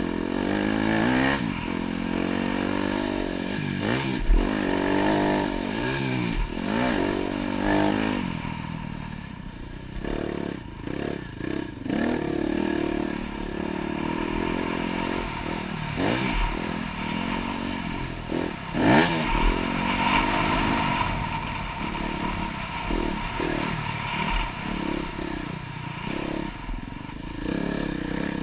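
Dirt bike engine ridden hard on a motocross track, its pitch rising and falling again and again as the throttle is opened and shut, with sharp knocks and rattles from the bike several times.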